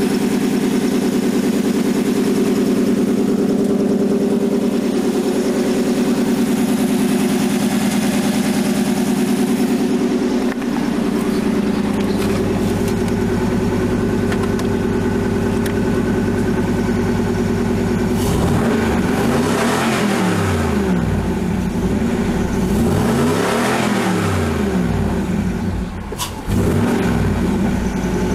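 Cadillac V8 in a mid-engine Toyota MR2 idling steadily, then revved up and back down twice in the second half. The engine has a cracked number 8 cylinder.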